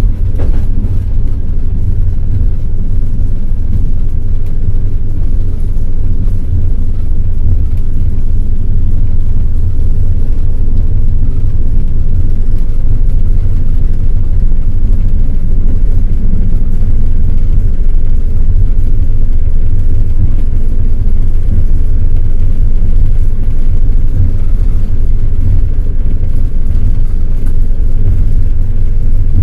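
Passenger train rolling along at speed: a loud, steady low rumble of the carriage's wheels on the rails.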